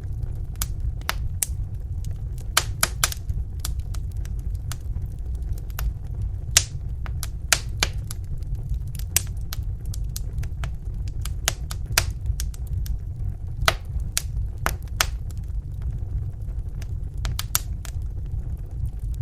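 Wood fire burning in a fireplace: a steady low rumble of the flames with irregular sharp crackles and pops from the burning logs, a few louder snaps standing out.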